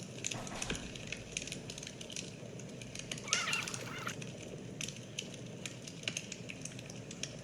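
A bird calls once, a wavering, warbling call lasting under a second about three seconds in, over light background noise dotted with scattered sharp clicks.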